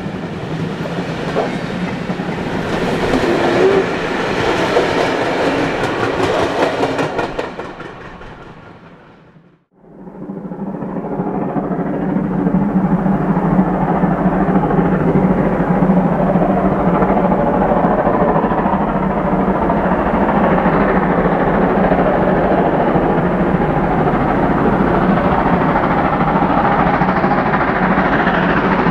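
Steam-hauled train rolling past, its wagons clattering over the rail joints. The sound fades out about a third of the way in, and another passing train fades back in and runs on steadily.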